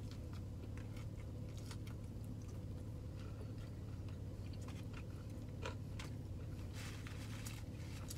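A person chewing a mouthful of fried chicken sandwich with the mouth closed: soft, scattered mouth clicks over a steady low hum.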